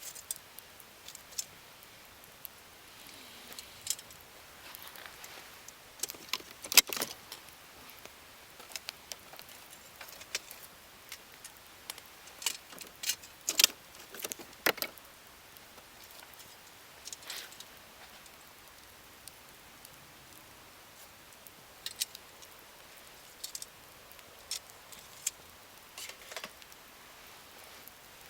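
Wood fire crackling: irregular sharp pops and snaps over a faint hiss, with a few louder snaps a quarter of the way in and again near the middle.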